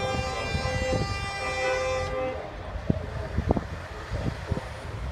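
A steady, horn-like drone with many overtones that cuts off about two seconds in, over scattered low knocks and bumps.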